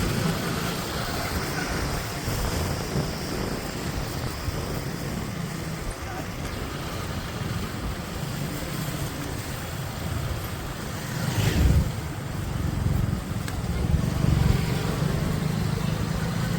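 Motorcycle riding along a town road, with steady engine and road noise and a brief louder swell about eleven seconds in.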